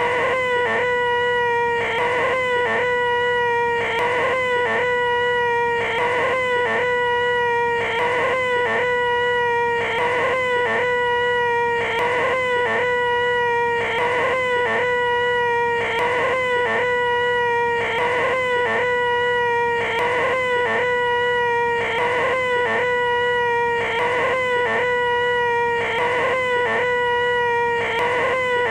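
A man's loud, nasal, buzzing 'eeeehhh' held on one pitch: the 'most annoying sound in the world', looped so that it repeats over and over with a short break about once a second.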